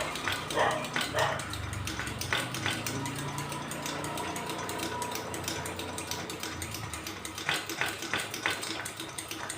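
Hand air pump of a Solar 350 c.p. kerosene pressure lantern being worked to raise the tank pressure after lighting, a fast rhythmic clicking over the steady hiss of the lit burner; the added air brings the mantle up to full brightness.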